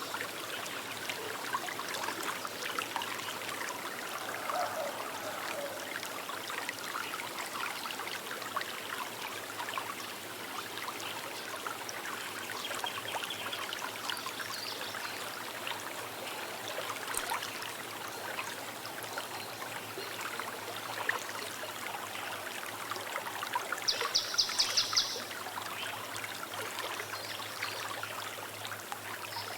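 Small river flowing steadily with a babbling, trickling sound. Near the end a bird gives one short, rapid high trill over the water, with a few fainter bird calls earlier.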